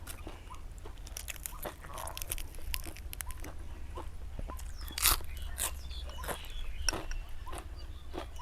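Close-up crunching and chewing of crisp food while eating, with many sharp crackly bites; the loudest comes about five seconds in. A steady low hum runs underneath.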